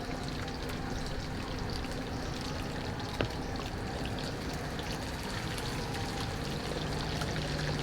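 Chicken drumsticks deep-frying in hot oil: a steady sizzle with many fine crackles.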